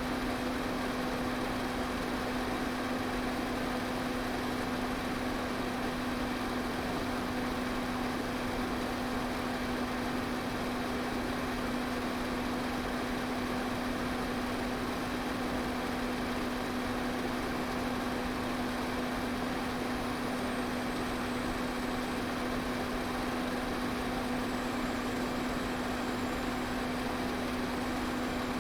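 Electric pedestal fan running steadily: an even rush of air over a constant motor hum.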